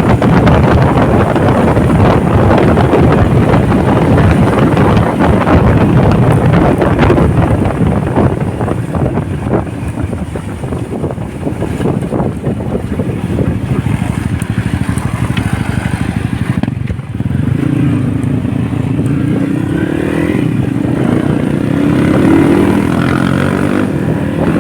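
Motorcycle riding on the road, with strong wind rushing over the microphone. In the second half the engine note comes through more clearly and rises as the bike accelerates.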